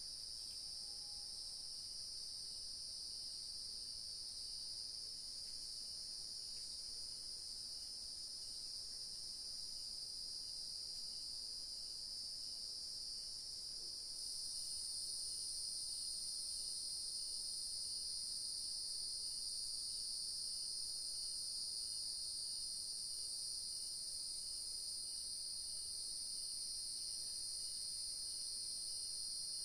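Evening chorus of crickets and other insects: a steady, high-pitched, continuous trilling in two layers, the higher layer growing louder about halfway through. A fainter chirp repeats about once a second beneath it.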